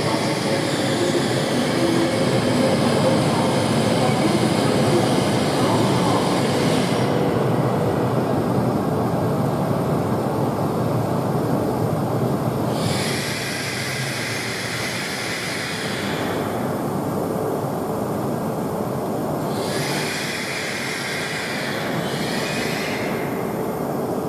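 Tohoku Shinkansen train running along the platform: a steady, loud rumble of wheels and running gear. A high hiss comes and goes three times over it.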